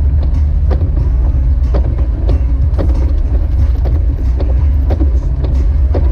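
Jeep Wrangler YJ driving on snowy roads: a steady, loud low rumble of engine and road noise, with a regular sharp knock about twice a second over it.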